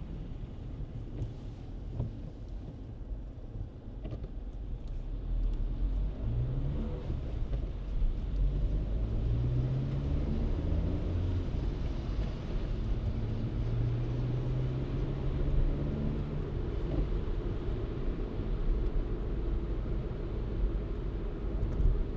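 Car driving, with a steady low rumble of engine and road noise. The engine pitch rises twice as the car accelerates a few seconds in, then holds steady.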